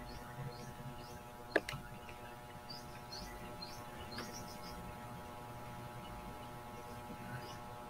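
Bird chirps: a scattering of short high chirps, thickest in the middle of the stretch and again near the end, over a steady hum. A single sharp click about a second and a half in.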